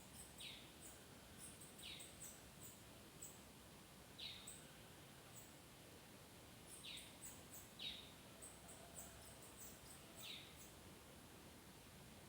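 Bananaquit (sibite) singing faintly: clusters of very high, thin chips, with a short downward-sliding note every second or two.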